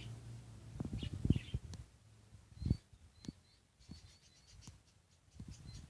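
Budgerigars chirping in short high tweets, with a few low thumps and knocks, the loudest about a second in and near three seconds.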